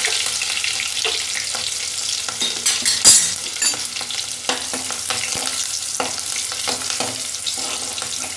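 Crushed garlic and green chillies sizzling and crackling in hot oil with cumin seeds in a kadhai, with a louder burst of spitting about three seconds in. A metal spoon stirs them near the end.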